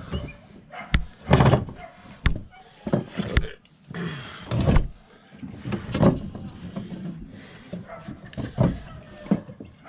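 Irregular knocks, clicks and short scraping bursts of hand tools working a tire off a motorcycle wheel rim.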